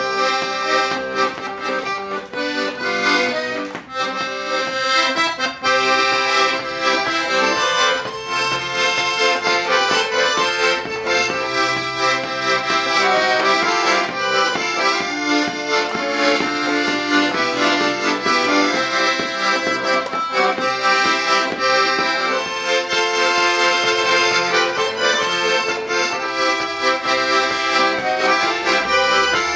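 Accordion playing a tune without a break: melody notes over chords and bass, the reeds' held notes changing from moment to moment.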